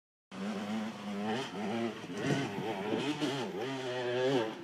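Motorcycle engine revving, its pitch rising and falling repeatedly as the throttle is worked; it starts about a third of a second in.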